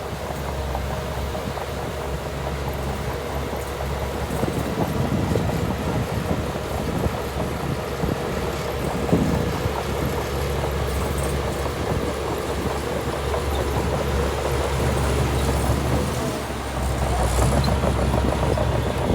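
Diesel engine of heavy earthmoving machinery running steadily under load, with rattling and clanking throughout.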